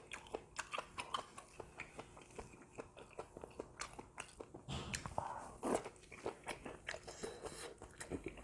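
Close chewing and mouth sounds of a person eating a grilled beef-intestine (gopchang) dish, a run of irregular wet clicks and smacks, a few louder ones about halfway through.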